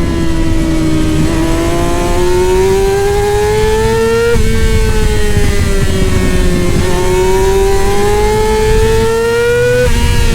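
Middleweight superbike race motorcycle engine at full throttle, its pitch climbing through the revs and dropping sharply at an upshift about four seconds in and again near the end, over a steady rush of low noise.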